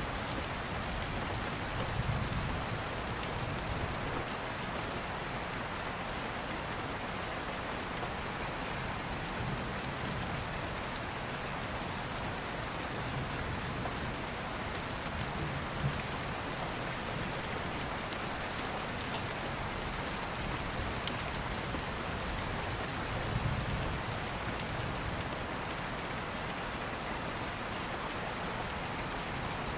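Steady rain falling, with soft low rumbles of distant thunder now and then and a few faint crackles from an open fire.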